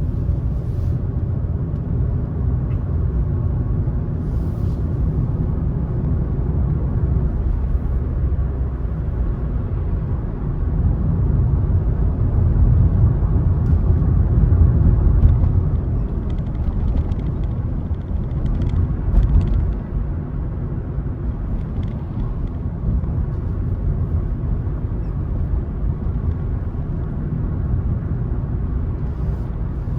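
A car driving along a road: a steady low rumble of tyres and engine. It grows louder for a few seconds near the middle, with a brief louder moment just after that.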